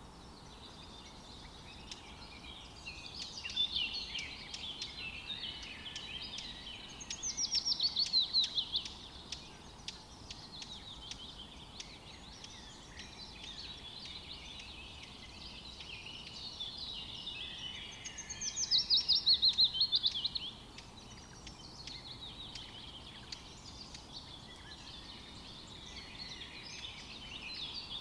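Forest birdsong: several birds chirping and singing together over a faint steady hiss. Twice, about a quarter and two-thirds of the way through, one bird sings a loud fast trill of repeated notes that falls in pitch and lasts about two seconds.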